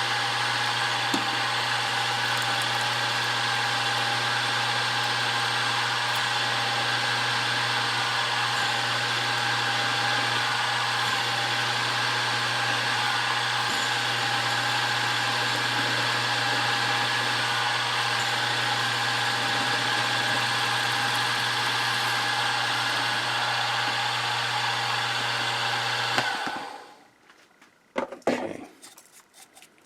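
Milling machine running steadily while drilling a #25 tap-drill hole through a part, a constant motor hum. The machine is switched off about 26 seconds in and goes quiet quickly, followed by a few light metallic clinks.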